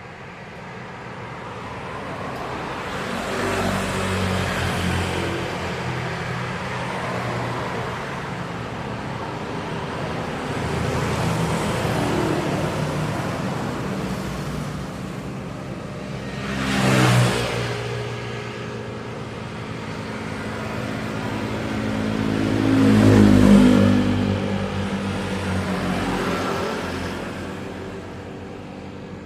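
Road traffic: motor vehicles passing one after another, each rising and fading, with one going by sharply about seventeen seconds in and the loudest about twenty-three seconds in.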